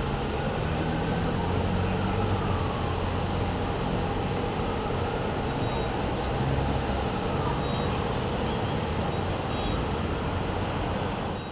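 Street traffic: a steady low rumble of engines from heavy and light vehicles, with a faint police siren wailing up and down in the first half.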